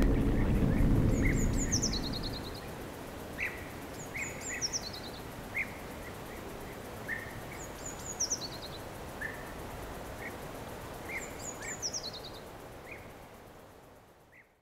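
A low rumble fading away in the first two seconds, leaving a steady outdoor background hiss. A songbird sings a short descending run of high chirps four times, with scattered single chirps lower down, before everything fades out near the end.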